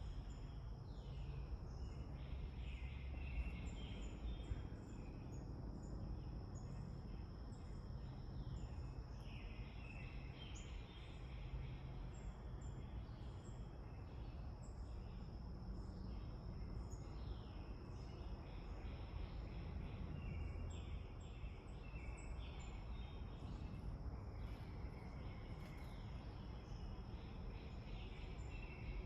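Birds calling with many short, falling chirps over a steady high insect drone and a low background rumble.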